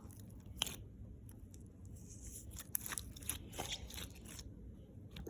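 Thick, glossy jelly cube slime being squished by hand, giving scattered soft crackles and pops as the jelly cubes are pressed.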